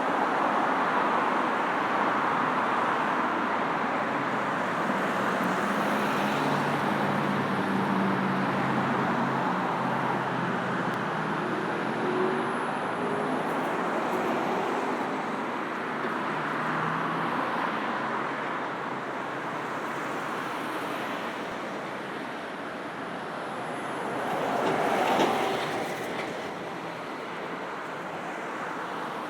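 Steady road traffic streaming past, with engines and tyres of passing cars mixing into a continuous rush. One vehicle passes close about 25 seconds in, rising and then fading.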